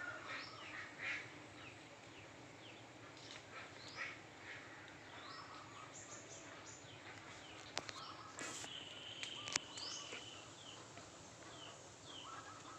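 Birds chirping and calling over faint outdoor ambience, with one longer held whistle-like call about nine seconds in and two sharp clicks shortly before and during it.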